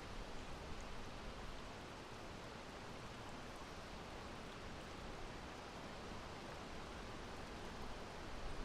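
Soft, steady wind: an even, faint hiss with no gusts or changes.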